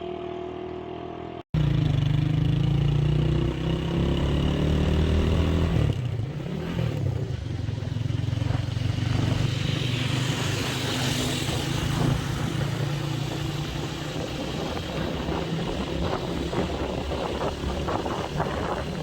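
Motorcycle engine running while the bike is ridden. About a second and a half in there is a sudden cut, after which the engine is louder and its pitch climbs as the bike accelerates, then it settles into steady running.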